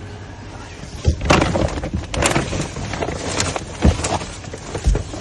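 Rummaging through a dumpster: rustling and crackling of bags and items being handled, starting about a second in, with three dull thuds.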